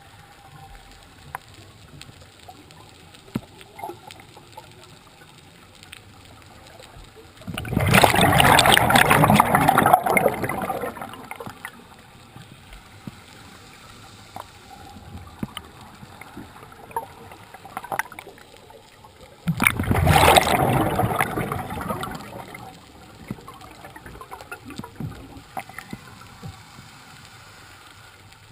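Scuba diver's regulator exhaust: two long bursts of bubbles as the diver breathes out, about twelve seconds apart, each lasting about three seconds. Between them, faint scattered clicking and crackling.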